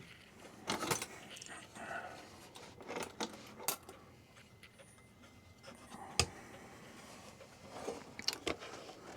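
Scattered small metallic clicks and clinks as a clock and its parts are handled, at irregular moments, with the sharpest click about six seconds in.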